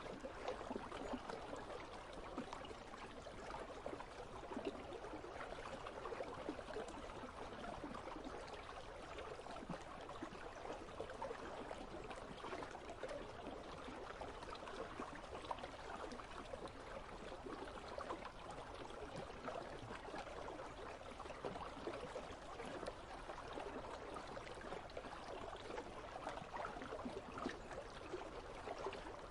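Icy river water flowing steadily, a continuous faint trickle and babble.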